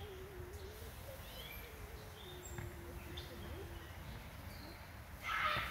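Birds chirping in the background, with a long, faint wavering call over the first few seconds and a brief louder burst of sound near the end.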